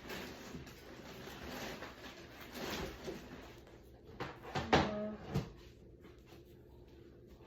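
Rummaging through a closet: rustling of things being moved, then a few knocks and bumps like a cupboard or closet door being handled, the loudest about five seconds in.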